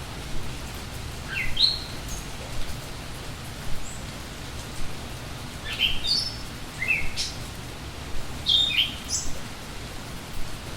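Steady rain hiss with a songbird chirping in short bursts of quick rising and falling notes, about 1.5 s in, again around 6 and 7 s, and near 9 s.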